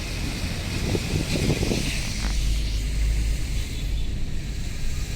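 Wind buffeting the microphone over the low rumble of a moving vehicle in traffic, with gusty bursts in the first two seconds.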